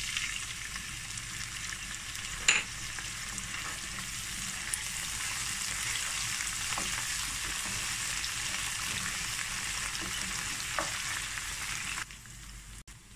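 Chopped onions and ginger-garlic paste sizzling in hot oil in a frying pan as they are stirred with a wooden spatula. There is one sharp knock about two and a half seconds in, and the sizzle cuts off abruptly near the end.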